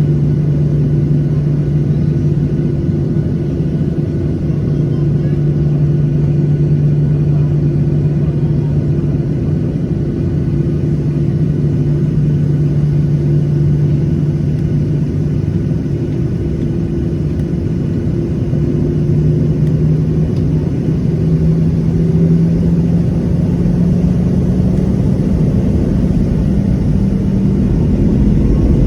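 CFM56 jet engines of a Boeing 737-800 running with a steady low drone; in the last ten seconds or so the tone climbs slowly as the engines begin to spool up.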